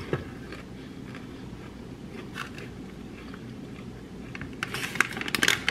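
A person chewing a mouthful of salad close to the microphone, mostly soft, with a run of crisp crackles and crunches in the last second or so.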